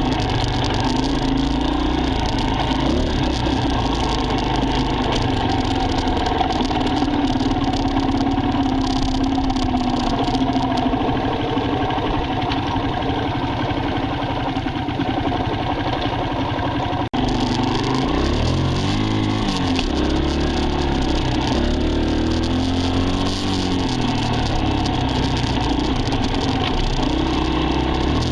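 Dirt bike engine running continuously, its pitch rising and falling with the throttle, with a brief dropout about two-thirds of the way through.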